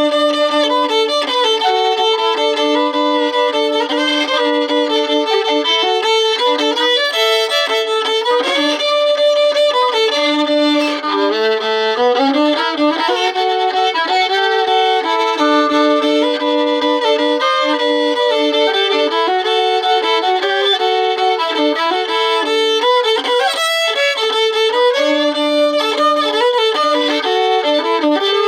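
Solo fiddle being practised in a Cajun style: a continuous run of bowed notes, often two strings sounding together. About twelve seconds in, a note slides upward.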